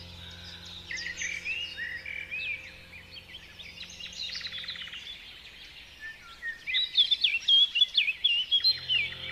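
Birds chirping and singing: many short high chirps and whistles, with a quick run of louder chirps in the last few seconds. Faint sustained music tones sit underneath, fading out about halfway through and coming back near the end.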